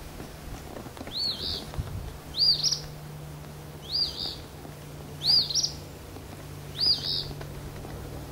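A bird calling over and over, a short arched chirp repeated six times, about once every second and a half, with a low steady hum underneath from about two seconds in.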